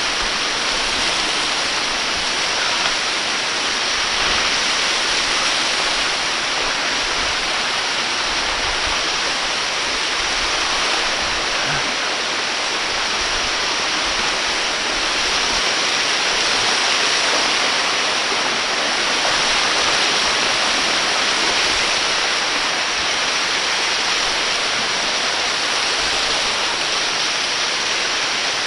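Waterfall pouring close by: a loud, steady, even rush of falling water.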